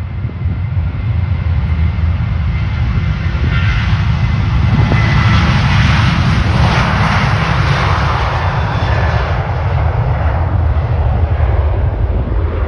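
Ryanair Boeing 737 jet engines at takeoff power passing by: a heavy low rumble that builds over the first second. A higher hiss swells to its loudest about halfway through, then fades while the rumble continues.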